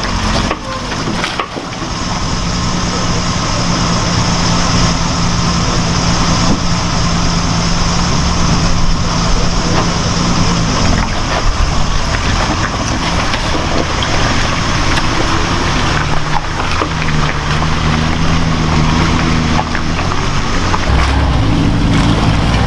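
Off-road truck engine running under steady load, its note shifting about halfway through, over a constant rushing noise.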